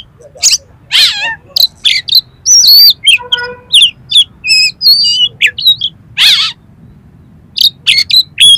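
Oriental magpie-robin (kacer) singing a fast, varied song of sharp chirps, whistled slurs and harsh notes, with a brief pause about two-thirds of the way through.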